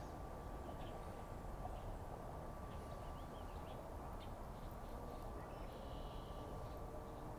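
A few faint, short bird chirps over a steady low background rumble with a faint steady hum.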